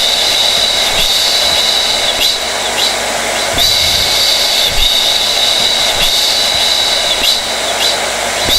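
Hair dryer running continuously: a steady rush of air with a high motor whine on top that dips briefly every second or so.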